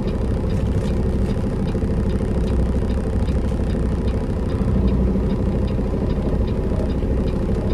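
Peterbilt semi truck's diesel engine idling steadily, with a faint regular ticking about twice a second.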